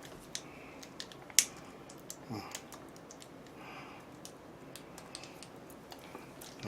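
Scattered light clicks and taps of a plastic hot sauce container being handled and tapped, the sharpest click about a second and a half in.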